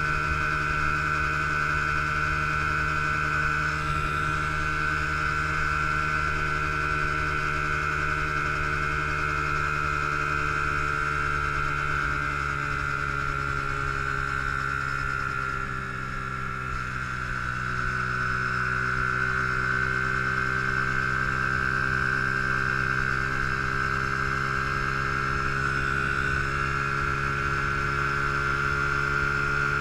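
Honda XR50's 49cc single-cylinder four-stroke engine running steadily while the bike cruises, heard from on board; about halfway through the pitch drops briefly as the throttle eases, then climbs back up.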